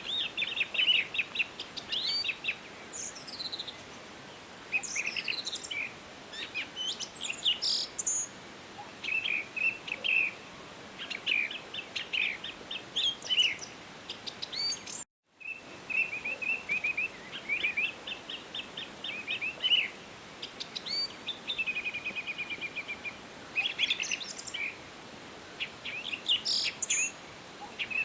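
Several wild songbirds singing and calling in short chirps, rapid trills and whistled notes, over a steady faint hiss. The sound cuts out completely for a fraction of a second about halfway through.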